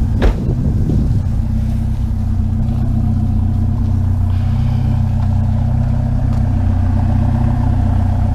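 Truck engine running steadily at low speed, a low even hum, with one sharp click about a quarter second in.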